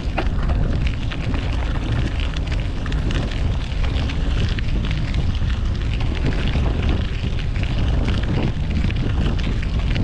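Wind rumbling on the microphone of a camera on a moving bicycle, with the steady noise of city street traffic underneath and frequent small crackles.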